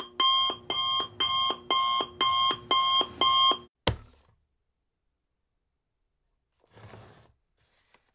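Electronic alarm beeping in a steady repeating pattern, about two and a half beeps a second, until a sharp click just under four seconds in cuts it off. A brief soft rustle follows a few seconds later.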